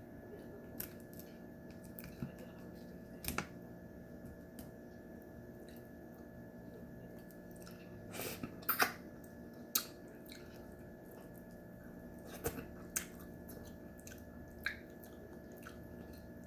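Eating steamed crab: scattered sharp cracks and clicks of crab shell being broken and picked apart, with chewing. The loudest cluster comes about eight to nine seconds in, over a steady low hum.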